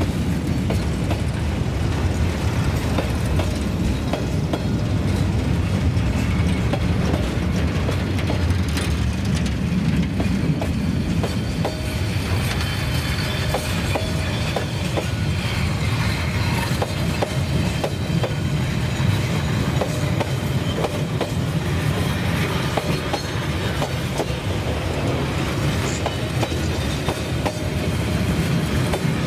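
Vietnam Railways freight train's open-top goods wagons rolling past close by: a steady rumble of steel wheels on the rails, with repeated clicks as the wheels cross the rail joints.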